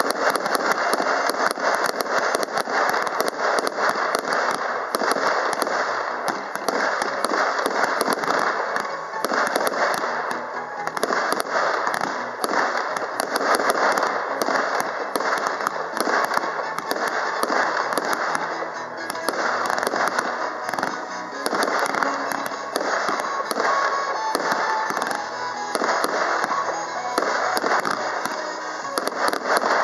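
Professional fireworks display: a dense, continuous barrage of bangs and crackles from aerial shells and cakes, with music playing along underneath.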